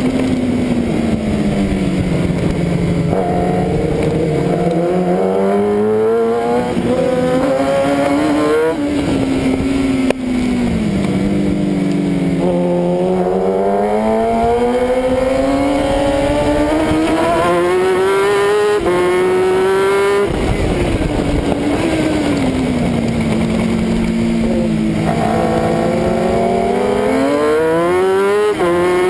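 1000 cc superbike engine at racing speed, heard on board. Its pitch climbs hard, with short drops at each upshift, then falls as the bike slows for a corner, repeating several times.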